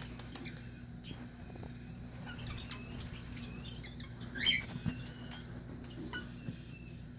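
Pet parakeet making soft, squeaky chirps with small clicks, a few brief chirps scattered through and the clearest about four and a half seconds in.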